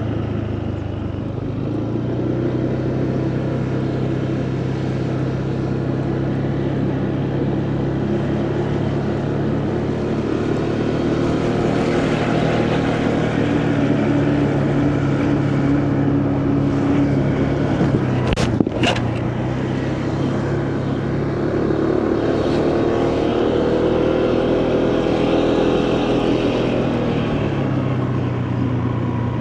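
Motorcycle engine running steadily at road speed, its pitch shifting a little with throttle, with wind and tyre noise. A brief sharp click or knock about two-thirds of the way through.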